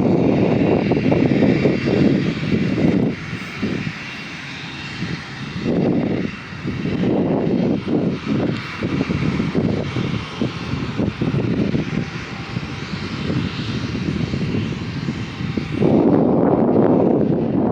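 Airliner engines running, with gusty wind buffeting the microphone in uneven surges. About sixteen seconds in the engine hiss drops away and a louder, wider rush takes over.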